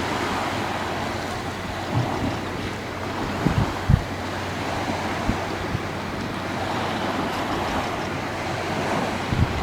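Sea surf washing steadily on the shore, with wind on the microphone. A few short, low bumps of wind buffeting come through, the loudest about four seconds in.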